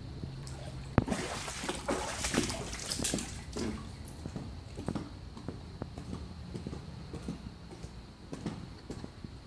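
Floodwater sloshing and splashing. It starts with a sharp knock about a second in, is busiest for the next few seconds, then settles into scattered small splashes and taps.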